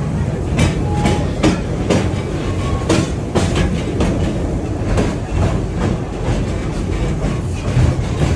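Riding in a park tour train's carriage: a steady low rumble with a sharp clack of the wheels over the rail joints about every half second.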